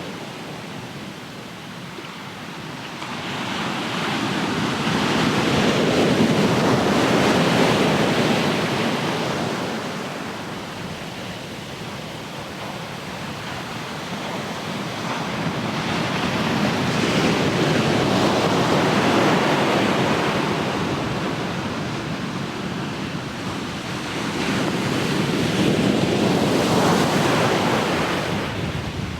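Ocean surf: waves breaking and washing up the shore in slow swells, three in all, each building over a few seconds and falling away, about ten seconds apart.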